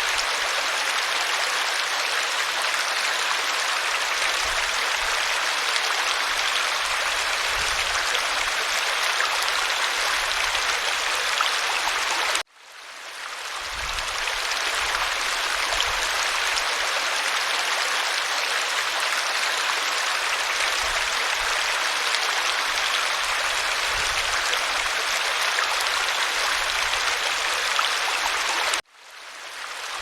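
Waterfall rushing, a steady, even wash of falling water. Twice the sound cuts out suddenly and fades back in over about a second, where the recording loops back to its start.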